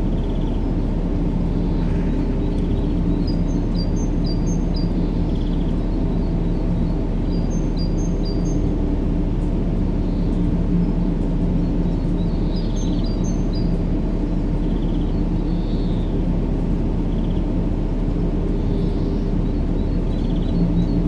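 Steady low-pitched sleep noise with a constant underlying hum, played continuously for a baby's sleep. Faint high bird chirps come through it in short runs a few times.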